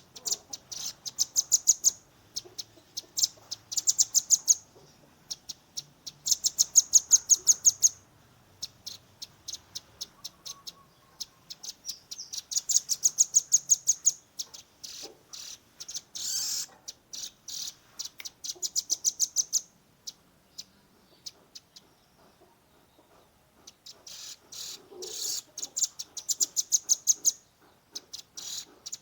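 Young velvet-fronted nuthatch giving its rapid 'tembakan' (shooting) call: fast trains of sharp, high notes that build in loudness over a second or two, repeated in bursts with short pauses between.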